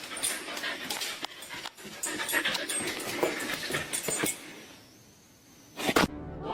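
A dog panting rapidly, with many small clicks and rustles. It breaks off into a short lull, then one brief loud noise comes near the end.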